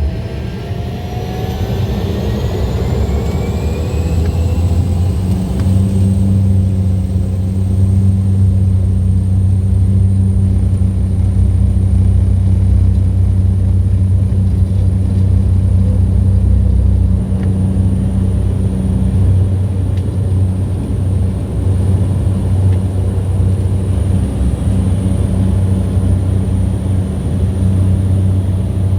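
A motor's drone rising in pitch over the first few seconds, then running steadily with a faint high whine above it.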